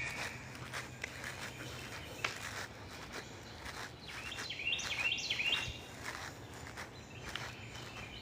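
Footsteps walking outdoors, with a bird singing a quick run of short high notes about halfway through.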